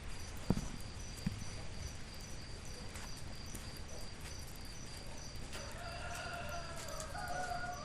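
Steady rain with a few sharp drips in the first second or so. About five and a half seconds in, a long held call begins, stepping up in pitch partway through and still sounding at the end.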